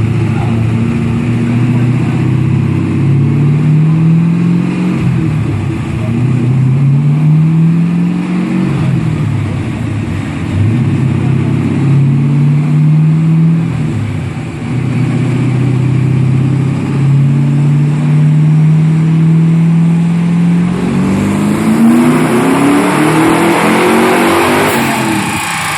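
1998 Camaro SS's twin-turbocharged LS1 V8 at full throttle on a chassis dyno at 12 psi of boost, pulling up through the gears: the engine pitch climbs, drops at each shift and climbs again. In the last pull it rises steeply with a loud rushing hiss, then cuts off sharply as the throttle is lifted near the end.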